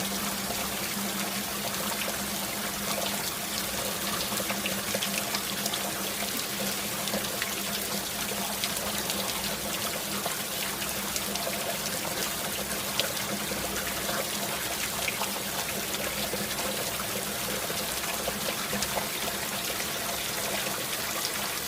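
Steady rushing and hissing of water in a rainstorm, with small scattered ticks over a constant wash.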